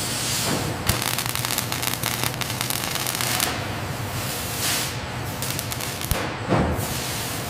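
Factory noise: dense crackling and hiss over a steady low machine hum, with a few whooshing sweeps.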